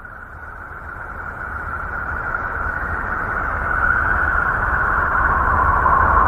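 A space 'planet sound' sonification: a noisy, rumbling drone that swells up steadily from silence. Its hissing upper band slowly sinks in pitch.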